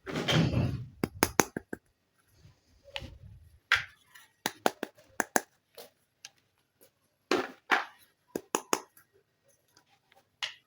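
Small plastic toy kitchen pieces being handled and set down: a short burst of handling noise at the start, then a string of sharp clicks and taps at irregular intervals.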